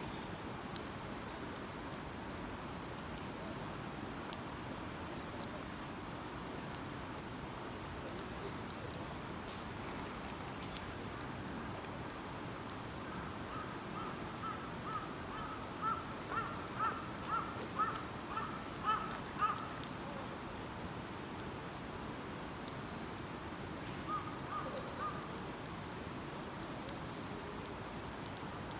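Wood campfire crackling with scattered sharp pops over a steady background hiss. About halfway in, a bird calls in a quick run of short repeated notes for several seconds, and again briefly near the end.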